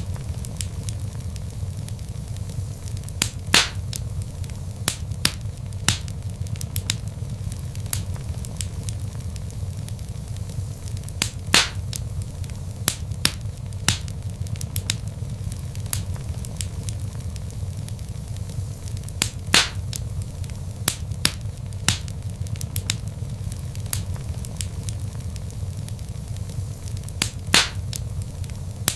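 Log fire crackling in a fireplace: a steady low rumble of flames under frequent sharp snaps and pops, with a louder pop about every eight seconds.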